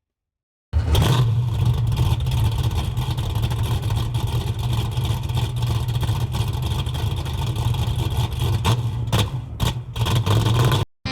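A car engine running loud and steady, with a deep hum under a wash of noise, starting abruptly about a second in and cut off suddenly near the end.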